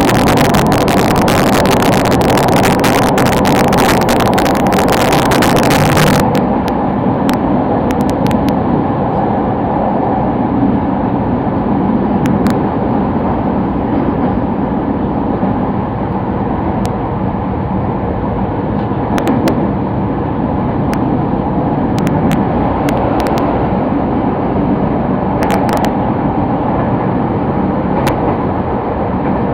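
Sotetsu Line train running between stations, heard from inside the car: a loud, steady rumble with scattered short clicks. A high hiss cuts off sharply about six seconds in.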